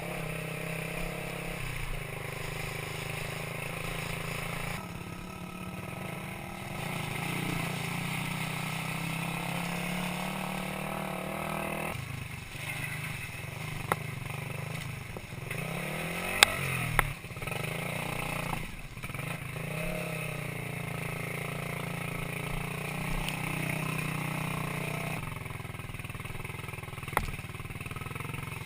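Minsk 125cc two-stroke motorcycle engine running under way, its pitch shifting in steps several times and sweeping up and down in the middle. A few sharp knocks and clatter come in the middle and once near the end.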